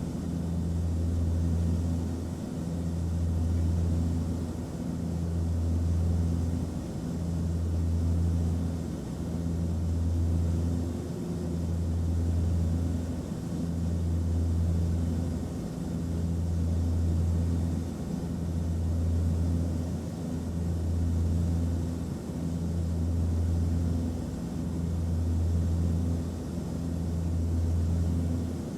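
Airplane cabin noise: a steady low engine drone with a few fainter hums above it and a slow, regular swell in level about every two seconds.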